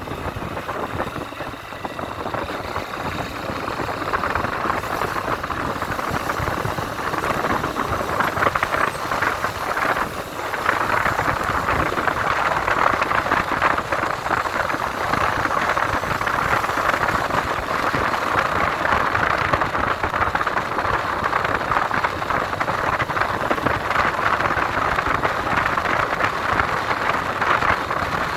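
Motorcycle ride heard from the rider's helmet: the engine running under a steady rush of wind noise, growing louder about ten seconds in.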